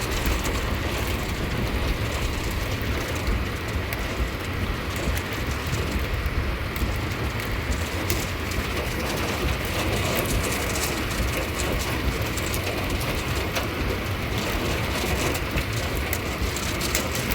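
Steady rain on a storm-chase vehicle, over a constant low rumble from the moving vehicle.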